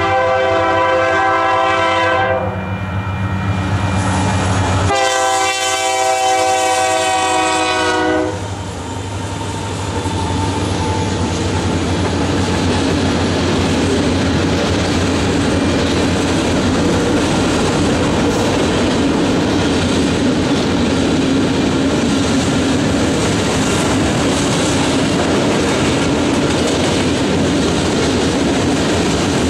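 Freight train horn: one blast ending about two seconds in, and after a short gap a second blast of about three seconds, over the locomotive's engine. After that the train's covered hoppers and tank cars roll past with a steady wheel-on-rail rumble and clickety-clack.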